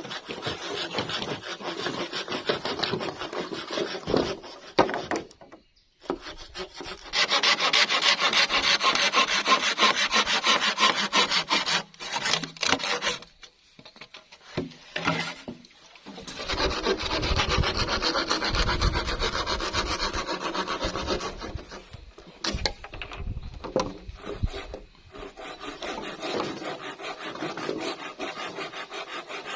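Rasping of a hand tool working bamboo, cutting or scraping it, in four long spells of several seconds each with short pauses between.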